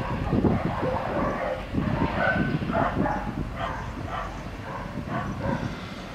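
Grain hopper wagons rolling away over the yard tracks: a low clattering rumble of wheels that fades. Over it a dog barks repeatedly in short yelps.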